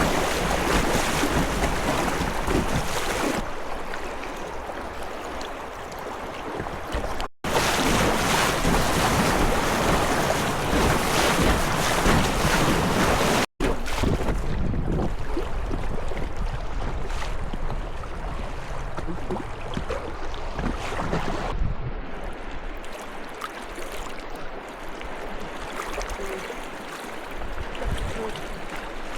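Rushing river rapids with wind buffeting the microphone as a kayak runs through white water. The sound is broken by two abrupt cuts, and after the second it settles into softer flowing water.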